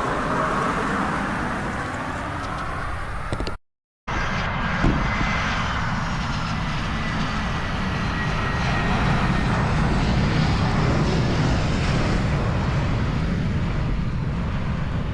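Airliner engines running with a steady loud rumble and a faint high whine that slowly falls in pitch; the sound cuts out for half a second about four seconds in, then carries on.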